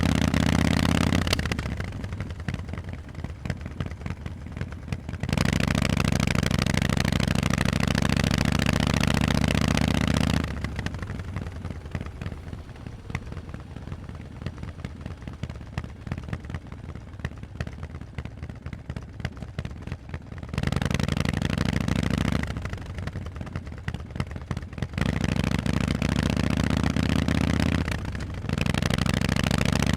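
Harley-Davidson Forty-Eight's air-cooled 1200 cc V-twin through Vance & Hines exhausts, being ridden. The bike is on the throttle in several loud, steady pulls, with longer quieter spells off the throttle in between.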